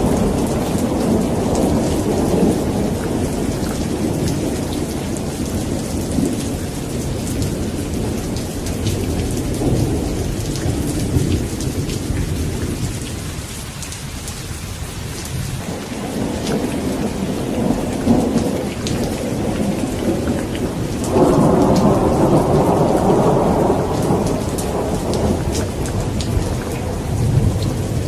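Steady rain falling with thunder rumbling through it in long, rolling swells. A louder roll of thunder sets in suddenly about two-thirds of the way through.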